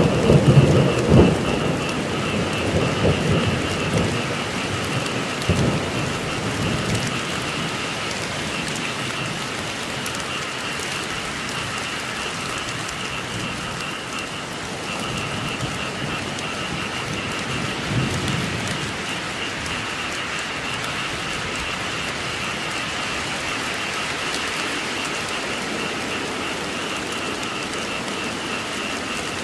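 Steady rain with thunder rumbling heavily at the start and fading over the first several seconds, then a softer rumble about two-thirds of the way in. Under the rain runs a steady, pulsing chorus of croaking frogs.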